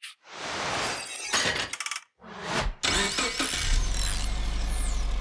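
A vehicle engine starting after a few uneven bursts, then running steadily with a deep low hum.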